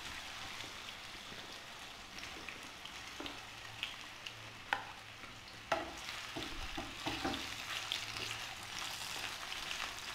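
Raw potato wedges frying in hot mustard oil in a pan, with a steady sizzle. A spatula moves the wedges around, and knocks sharply against the pan a couple of times about halfway through.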